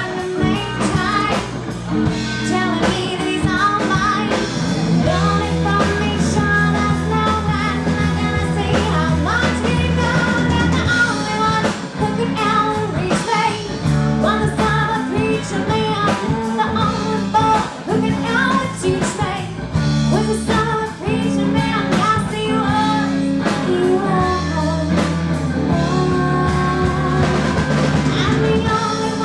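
Live band playing a rock song: a singer over long held bass notes, guitar and drum hits.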